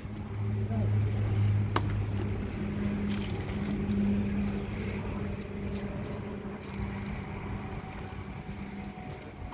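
A steady engine hum under a noisy hiss, fading slowly toward the end, with a single sharp click just under two seconds in.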